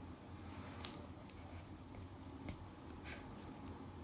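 Faint scratches and taps of a pen or marker writing on paper, a few short strokes over a low steady hum.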